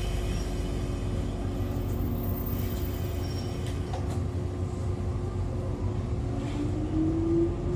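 Interior running noise of an Echizen Railway MC6101-series electric railcar: a steady low rumble and hum, and about six and a half seconds in a whine begins rising in pitch as the MT54 DC traction motors and gearing start to pull the car away.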